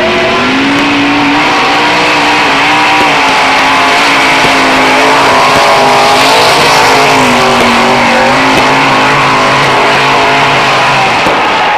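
Formula Off-Road car engine running hard at high revs, its pitch stepping up and down, dipping once about two-thirds of the way in before climbing again.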